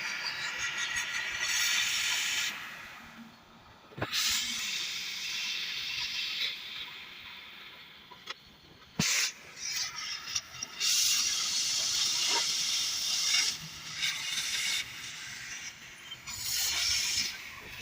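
Hissing noise in several stretches that start and stop, with a couple of sharp clicks between them.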